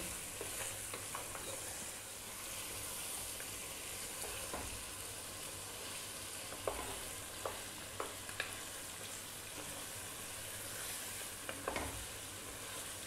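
Lamb on the bone frying with tomato, chilli and butter in a pot over medium heat, a steady sizzle as the tomato cooks down. A wooden spoon stirs it, with about five short clicks against the pot in the second half.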